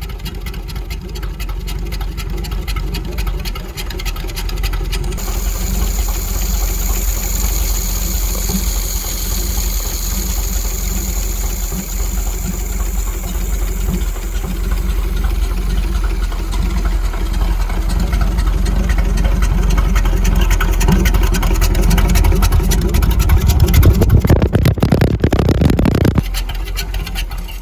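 GAZ-51B 3.48-litre inline-six petrol engine running steadily, growing louder toward the end, then dropping off abruptly shortly before the end.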